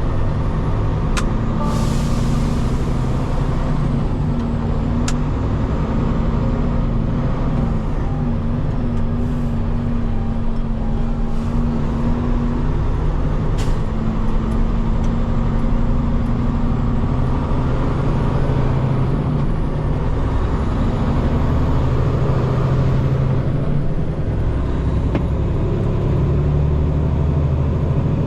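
Peterbilt 589 dump truck's diesel engine running steadily, with a short burst of air hiss about two seconds in and a few sharp clicks.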